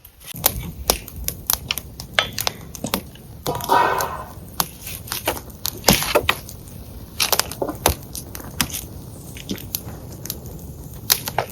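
Dry wood cracking and snapping: many sharp, irregular cracks over a low hiss, with a denser crunching patch about four seconds in.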